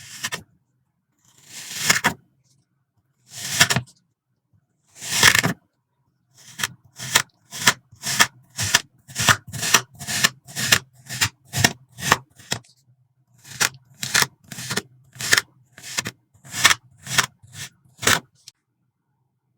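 Kinetic sand being cut with a blade, each cut a short crunchy scrape. Four slow cuts come first, then a quick run of about twenty at roughly two a second, with a short pause partway through.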